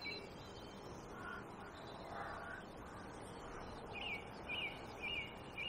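Faint birds calling, ending with one bird repeating a short high call four times, about half a second apart.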